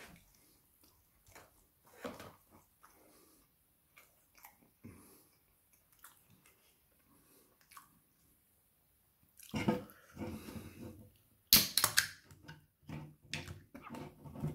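Wet chewing and mouth sounds of a person eating barbecue chicken wings, faint and scattered at first. Louder handling noises come in near the end, with one sharp clatter, the loudest sound, about eleven and a half seconds in.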